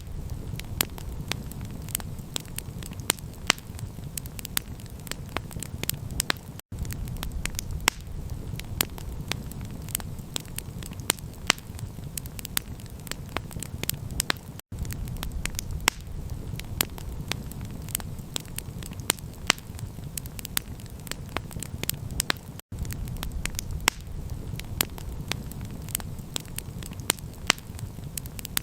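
Campfire crackling, with a constant stream of sharp pops and snaps over a steady low rumble. The sound cuts out for an instant about every eight seconds.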